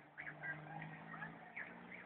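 Birds chirping: a quick string of short, high chirps, over a faint steady low hum.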